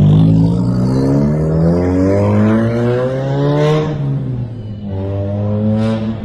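Car engine accelerating, its pitch rising steadily for about four seconds. It drops at a gear change, then climbs again in the next gear.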